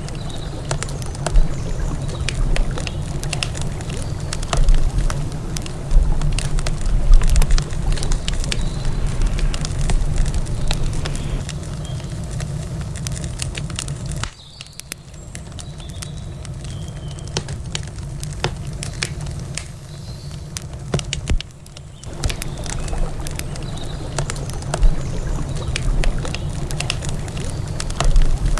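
Campfire crackling, with frequent sharp pops and snaps, over a steady low rush of riverside ambience. The low rush drops away for several seconds midway while the crackling goes on.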